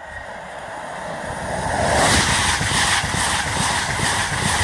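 An LNER electric express train passing through at high speed. A rush of wheel and air noise swells for about two seconds, then stays loud with a rhythmic clatter of wheels on the rails, about three beats a second.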